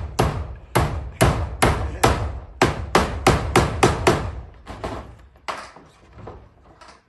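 Hammer driving nails: a steady run of about a dozen sharp blows, two to three a second, then a few slower, fainter strikes.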